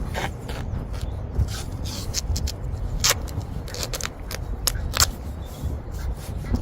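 Irregular sharp scrapes and clicks of hand work, with the strongest about three and five seconds in, over a steady low rumble.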